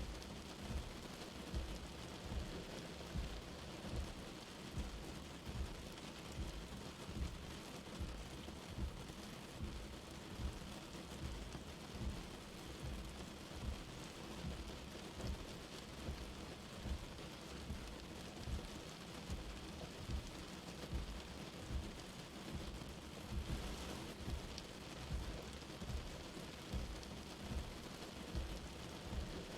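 Light rain falling steadily, an even patter with soft low thumps repeating about once a second.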